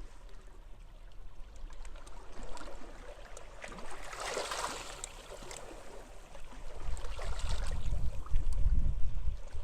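Small sea waves washing and trickling on a beach, with one louder wash about halfway through. Gusts of wind rumble on the microphone near the end.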